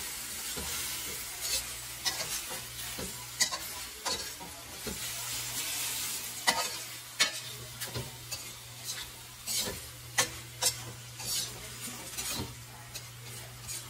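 Chicken pieces sizzling in a stainless steel skillet as a metal turner stirs and scrapes them, with sharp clacks of the turner against the pan. The chicken is being cooked down with just-added vinegar. The sizzle is strongest in the first half and then fades, while the clacks come more often in the second half, over a steady low hum.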